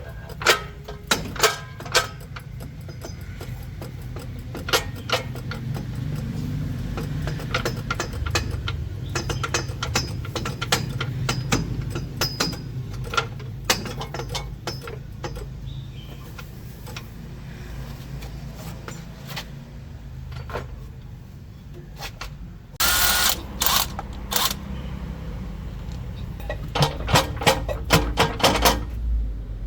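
Mechanic's tools working on a heavy truck: scattered metal clinks and knocks over a steady low hum. A loud, harsh burst of a power tool comes about two-thirds of the way through, and quick rattling taps follow near the end.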